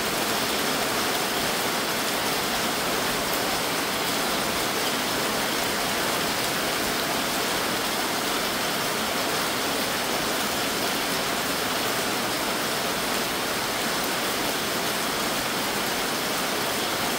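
Heavy rain falling steadily, a continuous even hiss of drops splashing on wet concrete and puddles.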